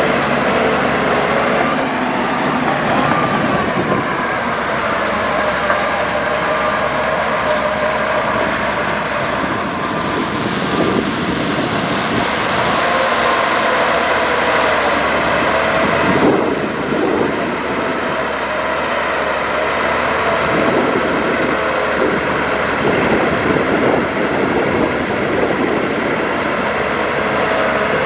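Heavy diesel earthmoving machinery running steadily, with a brief louder surge about sixteen seconds in.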